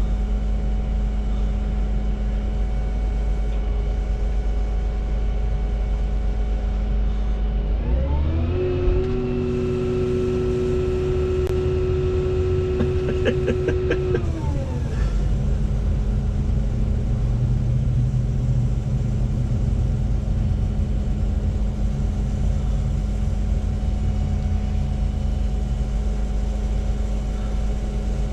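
Volvo 235EL excavator's diesel engine running steadily; about eight seconds in its pitch rises, holds for some six seconds, then falls back.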